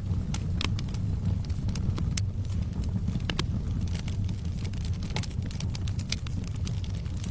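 Burning logs in a fireplace crackling and popping irregularly over a steady low rumble of the fire.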